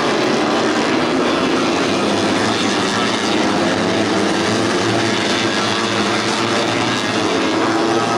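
Tuned four-stroke 150cc underbone race motorcycles running at high revs, several engine notes overlapping and rising and falling.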